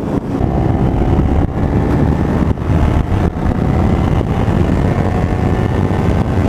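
Kawasaki Ninja 300 parallel-twin engine running at speed, with a faint steady engine tone showing through heavy wind noise on the microphone, which is the loudest sound.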